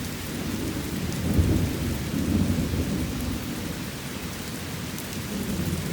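Steady rain hissing, with a low rumble underneath that swells and fades, loudest about a second and a half in.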